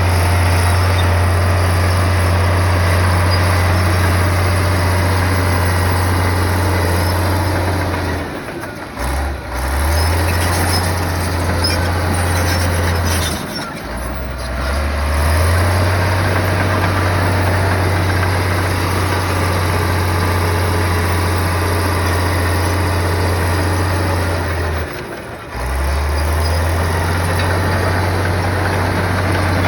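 Heavy bulldozer diesel engine running under steady load with a deep, even drone. It drops away briefly three times, and each time it climbs back up in pitch as the engine revs again.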